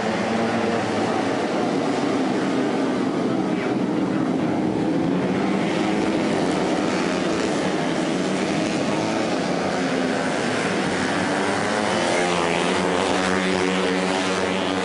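Racing motorcycle engines running hard at high revs, the pitch rising and falling steadily as the bikes accelerate and shift around the circuit.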